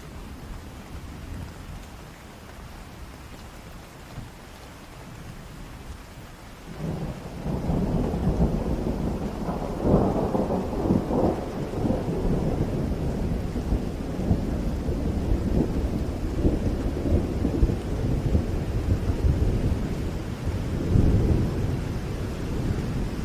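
Steady rain falling, with a long roll of thunder breaking in about seven seconds in. The thunder peaks a few seconds later, keeps rumbling, and swells again near the end.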